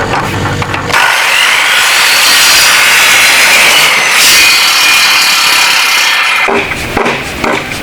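A power saw speeds up about a second in and cuts steadily through wood for around five seconds, with a high whine. It then drops back to a lower, pulsing run near the end.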